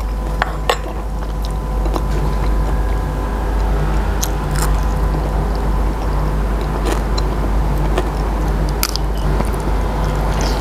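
A person chewing and biting a mouthful of raw beef koi and crisp fresh vegetables close to a clip-on microphone, with scattered sharp crunches and clicks. A steady low hum runs underneath.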